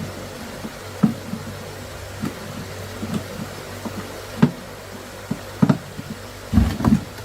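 Irregular knocks and clicks, a few close together and louder near the end, over a steady low hum.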